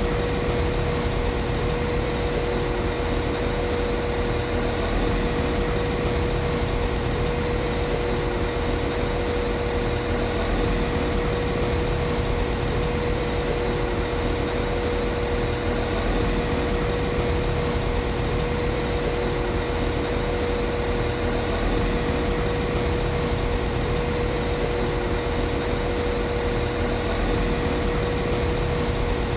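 Class 195 CAF Civity diesel multiple unit's underfloor diesel engine idling steadily: an even low rumble with a constant hum-like tone running over it.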